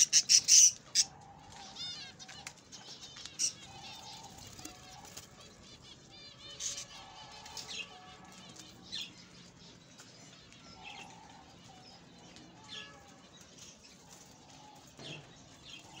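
Birds chirping in quick repeated runs, with wings flapping. A burst of several loud sharp sounds comes in the first second.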